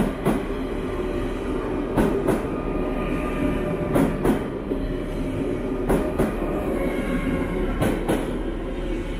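A DSB train of coupled diesel and electric multiple units rolling slowly past along the platform. Its wheels click over a rail joint in pairs about every two seconds, five pairs in all, over a steady running hum.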